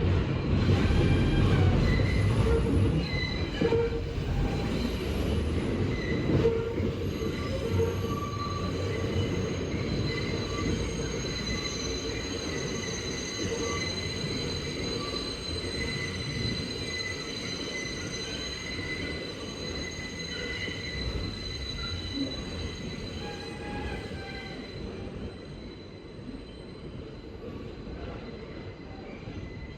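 New York City subway train running with a low rumble and its wheels squealing in long, steady high tones, loudest in the first few seconds.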